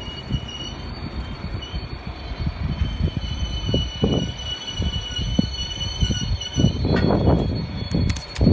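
A train rolling on the rails, with a thin steady wheel squeal and irregular heavy knocks from the wheels and cars, getting busier near the end.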